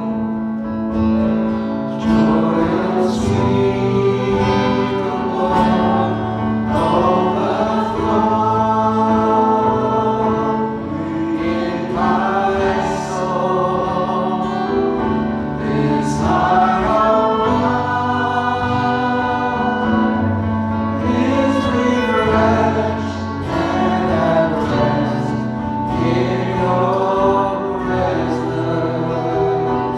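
Worship song: voices singing a melody in the style of gospel music over instrumental backing, with a steady sustained low note and bass line.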